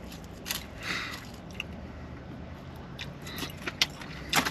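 Close-miked eating of a poke bowl: chewing and mouth sounds with scattered small clicks and scrapes, and a louder cluster of clicks near the end.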